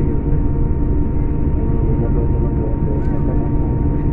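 Scania K410 coach's 13-litre inline-six diesel running under way, with road noise: a steady low drone and a thin, steady high whine above it.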